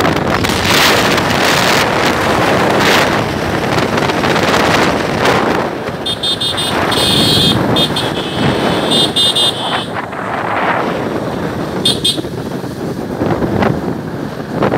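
Wind rushing over the microphone of a moving motorcycle, with a high-pitched vehicle horn beeping in a run of short blasts midway and once more briefly a little later.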